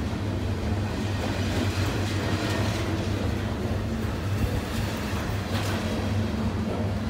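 Train rolling past: a steady rumble with a constant low hum.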